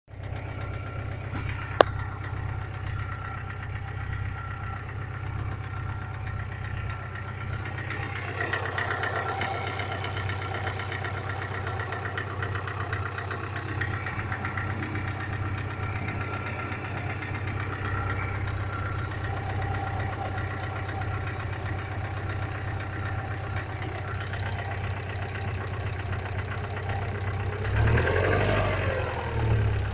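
Subaru flat-four boxer engine idling with a fast, steady knock, the fault the owner is recording. Near the end the engine is revved briefly, rising and falling in pitch.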